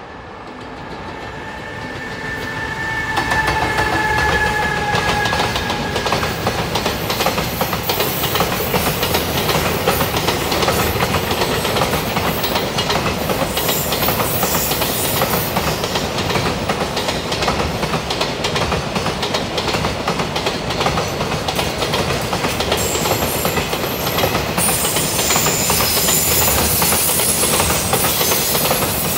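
Container freight train hauled by a JR Freight EF210 electric locomotive approaching and rolling past, growing louder over the first few seconds, with a faint high whine during the approach. Then a steady clickety-clack of wagon wheels over the rail joints as the long string of container wagons goes by.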